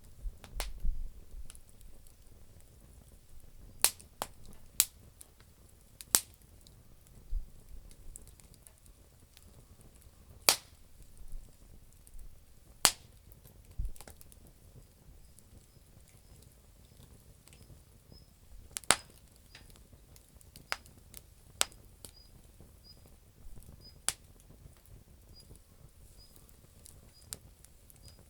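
Campfire of damp firewood crackling, with sharp, irregular pops every second or two over a low hiss.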